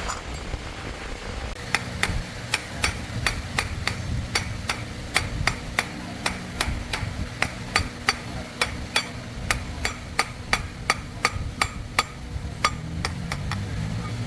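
Hammer tapping in a steady, quick rhythm, about three sharp blows a second, over a low steady rumble.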